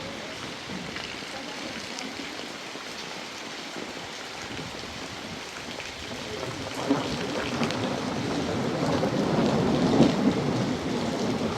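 Heavy rain falling steadily, with a deeper rumble swelling up over the second half and peaking near the end.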